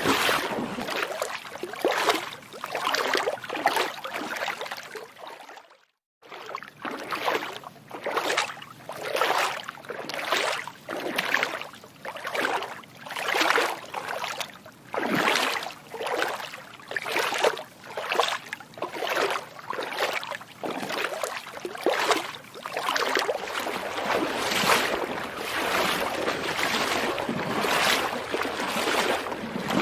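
Footsteps wading through water, with a splash at each step, about one step a second. The sound cuts out completely for about half a second roughly six seconds in.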